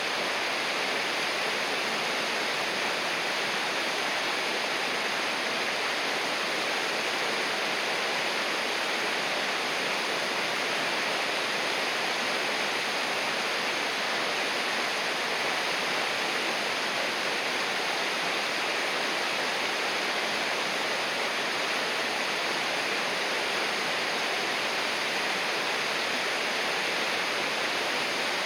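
River water rushing and splashing in a steady, even wash of noise, with no breaks or changes.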